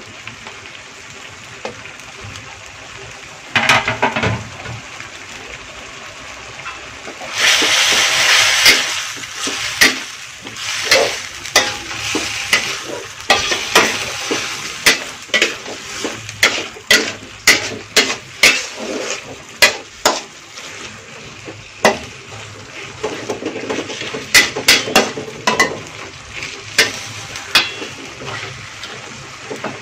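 Meat and onions frying in a pan with a steady sizzle, stirred with a spatula that scrapes and knocks against the pan many times. The sizzle swells loudly for a second or two about seven seconds in.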